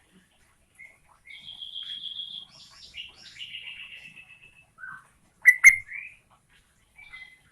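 Yellow-vented bulbul (trucukan) singing: a run of trilled, whistled phrases for about three seconds, then two loud sharp notes and a short rising whistle past the middle, and a few short notes near the end.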